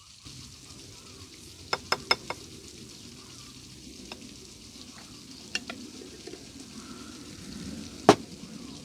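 Food frying in a pan with a low, steady sizzle, broken by a few sharp clicks: a quick cluster about two seconds in and a louder single click near the end.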